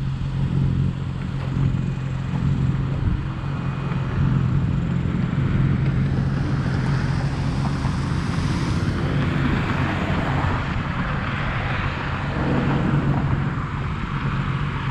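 Motorcycle engine running steadily at low revs, holding one pitch. A rush of noise swells up about six seconds in and fades again near twelve seconds.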